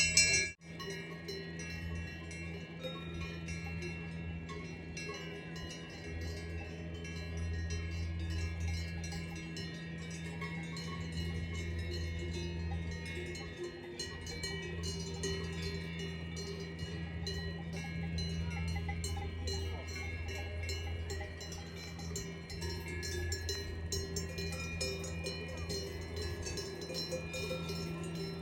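Many cowbells on grazing cattle ringing at once, an irregular, continuous jangle of overlapping bell tones.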